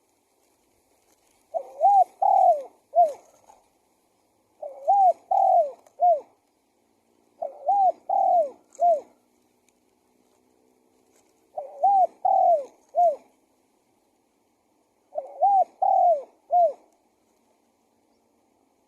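Spotted dove cooing: five song phrases, one every three to four seconds, each a short lead-in note followed by three hooked coos, the last coo shorter than the others.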